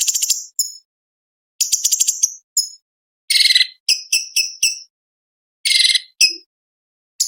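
Cucak cungkok leafbird singing in short, high, rapid chattering phrases and clipped notes, with brief silent gaps between them. A longer trill starts at the very end.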